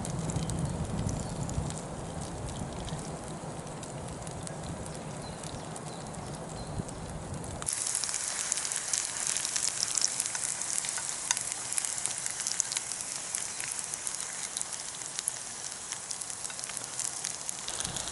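Food frying in hot oil in a pan over a campfire: a steady sizzle with scattered crackles. About eight seconds in, the low rumble drops out and the sizzle turns brighter and crisper.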